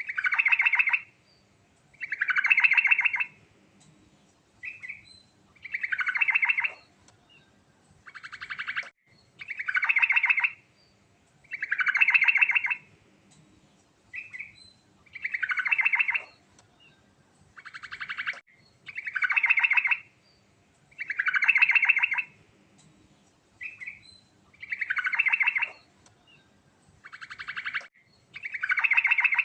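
Yellow-vented bulbul singing, repeating the same short phrase about every two seconds: each phrase opens with a quick stuttering rattle and runs into a fuller, bubbling note. A brief single chirp falls between some of the phrases.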